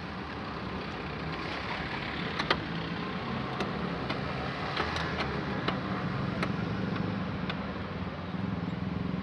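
A motor running steadily with a low hum and a noisy hiss, with scattered sharp clicks and taps over it, the loudest about two and a half seconds in.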